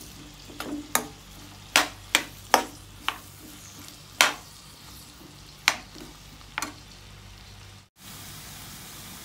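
Sliced onions, garlic, ginger and green chillies sizzling steadily in coconut oil as they are sautéed towards golden, with a metal spoon knocking and scraping against the frying pan about nine times as they are stirred.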